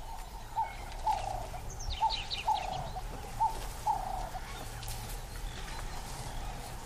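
Birds calling: a short call note repeated about six times, mostly in pairs, over the first four seconds, with a quick run of higher chirps about two seconds in.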